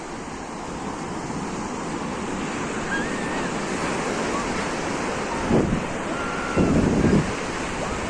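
Sea waves washing on a beach, a steady rushing noise, with wind on the microphone and two short gusts near the end.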